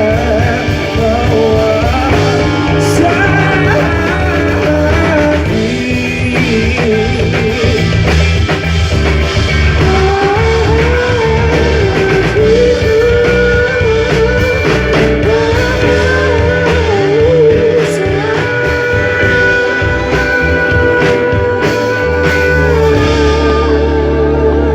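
Live rock band playing a song at full volume, with drums, bass and guitar under a wavering, sliding melody line that carries on through the passage.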